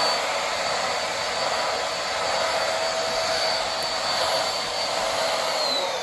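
Corded vacuum cleaner with its roller brush running steadily with a high whine, switched off near the end so the motor's pitch falls as it spins down.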